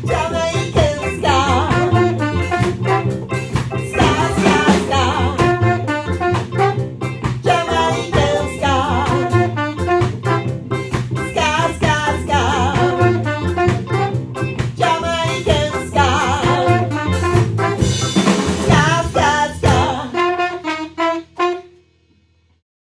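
Ska band playing a 1960s-style Jamaican ska tune, a horn section of saxophone, trombone and trumpet over double bass and drums with a steady beat. The song ends about twenty seconds in, the last chord fading out over a second or two.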